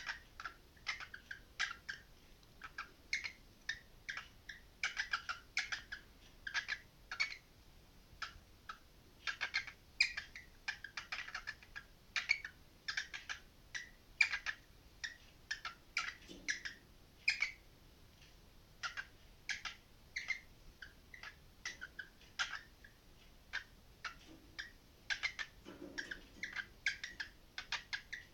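A parrot making a long run of short, rapid chirps and squawks, one after another in an irregular patter.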